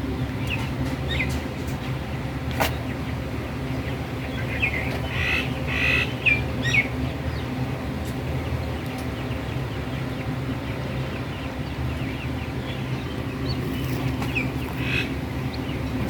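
Birds chirping in short high calls, in three clusters with the busiest in the middle, over a steady low mechanical hum; one sharp click early on.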